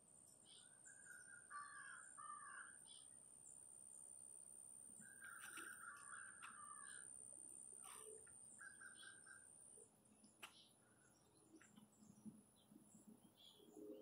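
Faint birdsong: scattered chirps and short twittering phrases coming in a few clusters. A thin steady high tone runs underneath and stops about ten seconds in.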